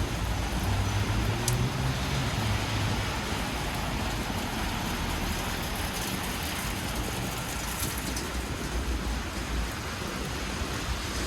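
City traffic passing on a rain-wet street, with a steady hiss of rain and tyres. A vehicle's low engine rumble is strongest for the first three seconds or so.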